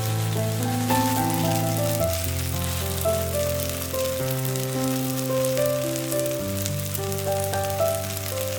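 Korean chive pancake (buchujeon) sizzling and crackling as it fries in oil in a pan, under background music with a slowly moving melody.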